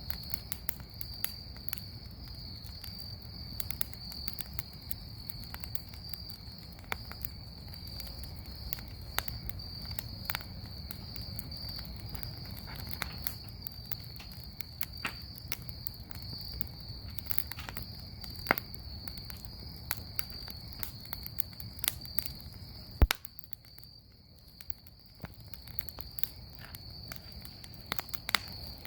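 Bonfire crackling with frequent sharp pops, one much louder pop about two-thirds of the way through, over a steady high-pitched insect trill and a low rumble.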